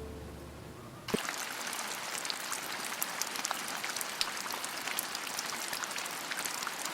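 Background music fading out; about a second in, a steady rain-like patter with many small sharp ticks starts abruptly.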